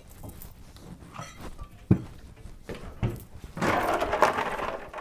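Two dull thunks about a second apart, then about a second of dense clattering near the end.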